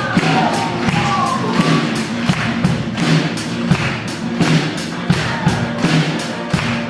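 Instrumental break in a band's pop song: a steady drum beat with a short melody line over it and no singing.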